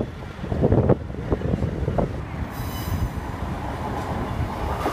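East Midlands Trains diesel multiple unit approaching over the rails with a low rumble, and a brief high-pitched wheel squeal about two and a half seconds in.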